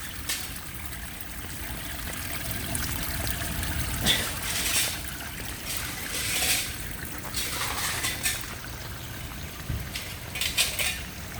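Floodwater trickling and pouring steadily into a storm drain that has just been cleared of gravel, with several brief splashing bursts.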